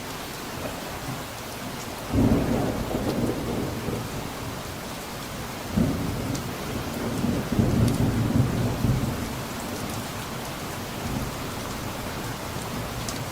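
Steady rain with a rumble of thunder. The rumble starts suddenly about two seconds in, swells again around six to nine seconds and dies away by about ten seconds.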